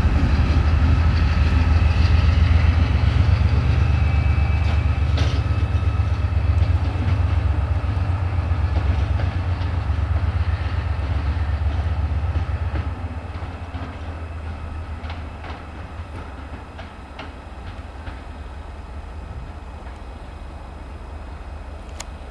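Class 68 diesel-electric locomotive running light engine, its Caterpillar V16 diesel giving a heavy low rumble that drops off sharply about halfway through and carries on fainter as it draws away. A few clicks of wheels over rail joints come in the quieter second half.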